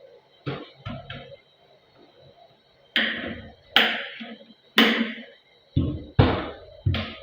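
A series of sharp knocks and clunks, about eight in all, the loudest coming in quick succession around the middle and towards the end, as of hard objects being handled and set down.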